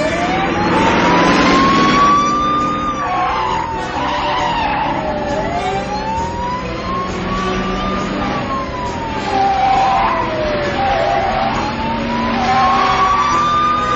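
A wailing vehicle siren slowly rising and falling, about one cycle every five to six seconds, over the noise of cars being driven hard, with bursts of tyre hiss.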